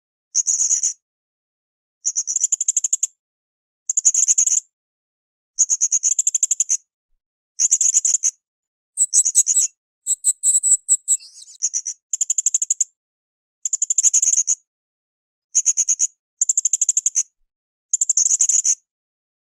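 Blue-crowned hanging parrot (srindit) calling: repeated short bursts of shrill, rapidly pulsed trills, about one every two seconds. A more varied, twittering phrase comes near the middle.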